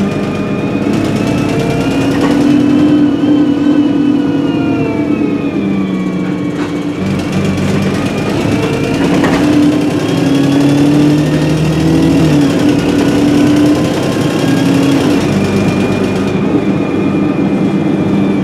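Alexander Dennis Enviro300 bus on an ADL E30D chassis heard from on board, its diesel engine and Voith 4-speed automatic gearbox pulling under way, the pitch climbing and falling as it accelerates and changes gear. The exhaust is blown, which colours the engine note.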